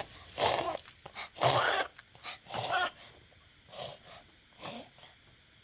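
Dog coughing in a fit: a run of short, wheezy hacks about once a second, loudest in the first three seconds and growing fainter toward the end.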